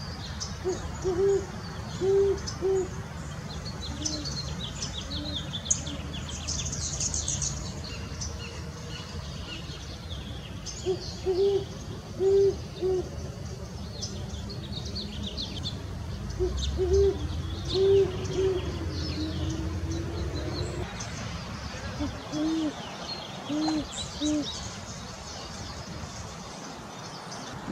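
A male and a female great horned owl hoot back and forth in short groups of deep hoots. One voice is pitched a little higher than the other: the female's runs higher than the male's. Small birds chirp faintly underneath, over a low background rumble that fades about three-quarters of the way through.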